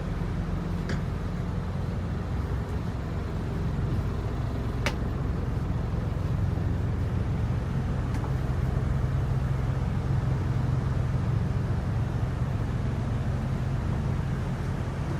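Used Japanese truck's engine running steadily at idle, a constant low hum with a few faint clicks.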